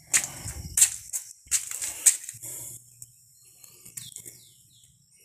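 Several short rustles and knocks, like something being handled, bunched in the first two seconds, then a few short high bird chirps about four seconds in.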